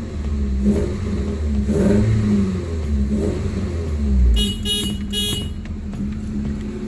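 Toyota RAV4 engine running on newly fitted ignition coils, its low rumble swelling and easing with the throttle and running more smoothly, the earlier misfire gone. A brief high tone sounds about three times near the middle.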